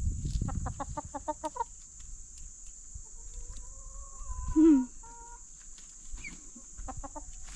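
Chicken hens clucking close by: a quick run of short clucks, then a long drawn-out call that ends in a brief louder squawk falling in pitch about halfway through, and a few more clucks near the end.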